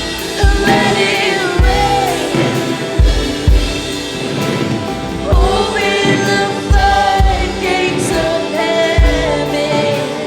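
Live contemporary worship music: a band with kick drum and sustained chords under voices singing, gliding melodic lines.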